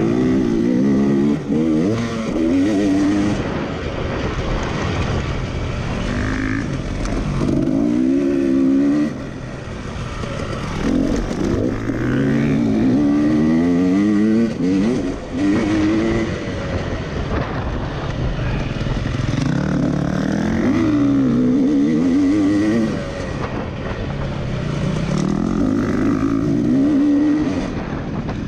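Racing tractor engine running hard, its pitch climbing and falling again every few seconds as it speeds up and backs off around the track, over steady wind noise.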